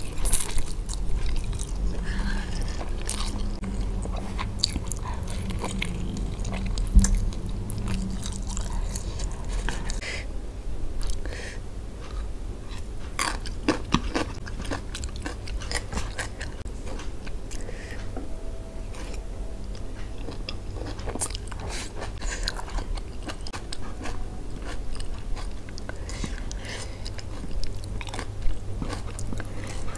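Eating Indomie goreng fried instant noodles: wet chewing and biting with many short mouth clicks and smacks.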